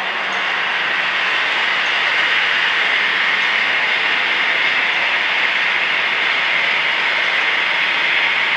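White noise played from a phone's loudspeaker: a steady, even hiss, strongest in the upper-middle range with little bass, standing in for traffic noise in a noise-barrier test.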